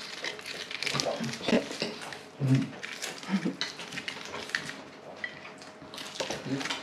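A person with tetraspasticity chewing a bite of lahmacun: wet mouth clicks and smacks throughout, with short low vocal sounds about two and a half and three and a half seconds in.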